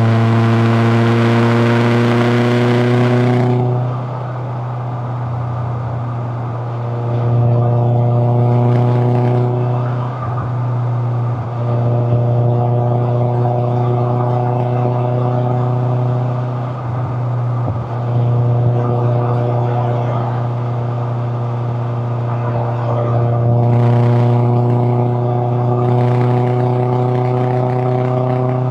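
Toyota AE86 Corolla Levin's 4A-GE twin-cam four-cylinder engine and exhaust under way, its note climbing steadily through several pulls, each broken by a short dip as the driver lifts or changes gear. The first few seconds are the loudest, with a strong hiss over the engine note.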